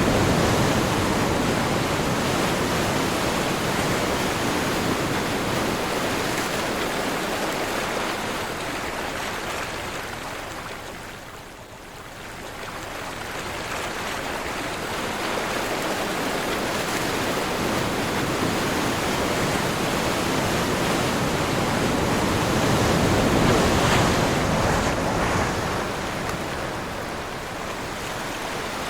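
Ocean surf on a windy day: waves breaking and washing in as a continuous rush of noise, with wind. It fades to a lull partway through, then builds to a loud swell and eases off again near the end.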